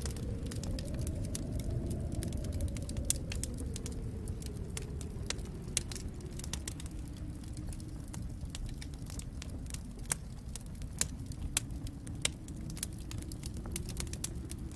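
Wood fire crackling, with scattered sharp pops over a low steady rumble and a faint hum that rises slightly in pitch, then slowly sinks.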